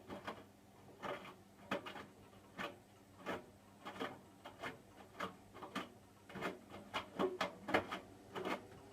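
Hotpoint washing machine drum turning with irregular knocks and clunks, one or two a second, over a faint steady hum. The machine is in the last minute of a cotton cycle, just ahead of its final spin.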